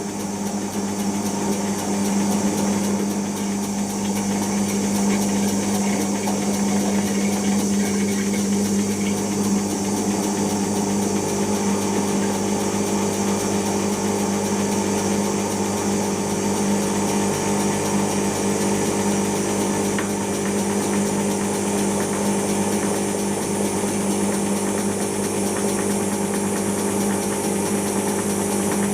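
Siemens iQ washing machine in its intermediate spin after the wash: the drum spinning with a steady motor hum and whine.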